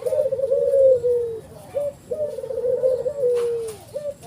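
Ivory-white ringneck (Barbary) dove, the 'puter' of Indonesian bird keepers, cooing: two long rolling coos, each dropping slightly in pitch at its end and followed by a short clipped note.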